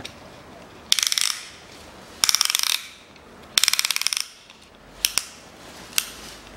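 Ratchet of a piston ring compressor being tightened around a piston to squeeze its rings: three short runs of rapid clicking, then a few single clicks near the end.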